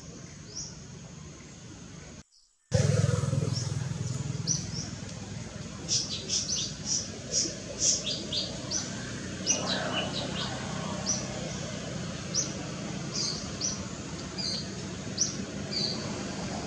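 Outdoor birdsong: many short, high chirps repeated over a steady low background noise, coming thick and fast from about six seconds in. The sound cuts out completely for a moment about two seconds in, then returns louder.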